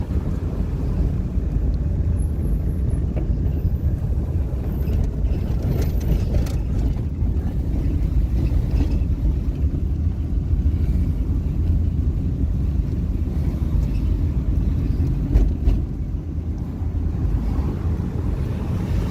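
Steady, loud wind buffeting the microphone, a dense low rumble with a brief louder gust about fifteen seconds in.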